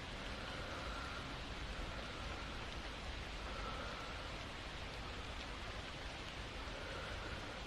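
Steady rain falling, even and unbroken.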